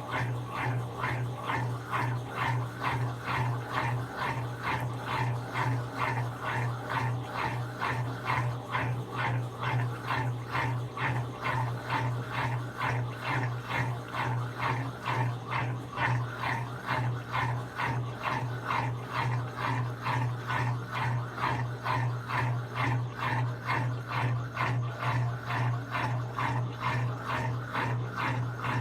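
Brastemp 17 kg top-loading washing machine running, a steady motor hum under a rhythmic whining pulse about twice a second.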